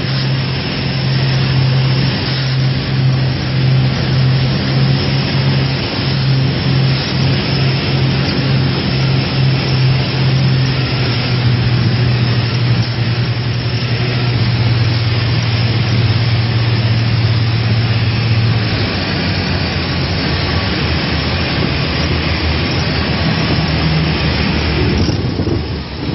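Propeller aircraft engine droning steadily with a strong low hum. The pitch steps slightly lower about eleven seconds in, and the hum gives way to a rougher, noisier rumble about eighteen seconds in.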